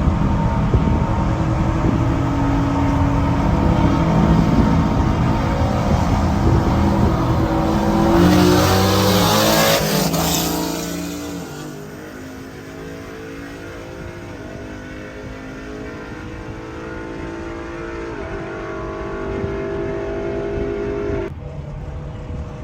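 High-horsepower street cars' engines at full throttle in a roll race, rising in pitch and loudest about nine to ten seconds in, then dropping in pitch as they pass and fade. A quieter engine then slowly builds before the sound cuts off sharply near the end.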